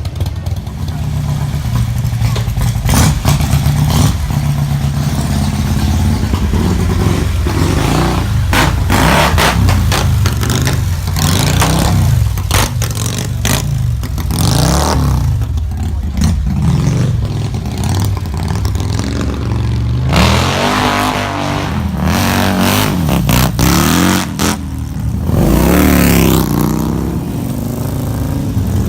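Vehicle engine running while on the move, its pitch rising and falling with revving in the later part, with frequent knocks and clatter over it.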